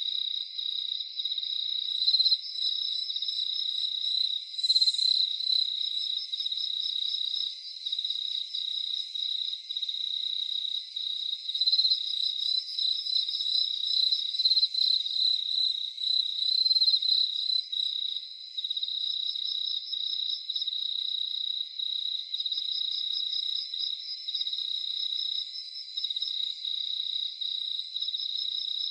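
Crickets chirping in a continuous fast trill, at least two overlapping at slightly different pitches, high and steady without a break.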